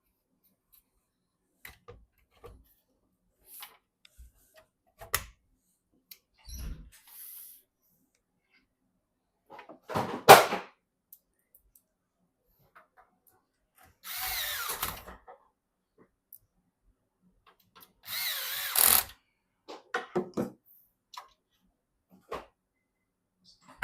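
A small electric screwdriver runs in two short bursts of about a second each, with a wavering motor whine, driving screws into PC parts. Scattered light clicks and taps of handled parts run between them, with one louder knock about ten seconds in.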